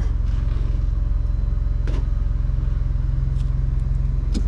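Vehicle engine idling steadily with a low, even hum, and a few faint ticks over it.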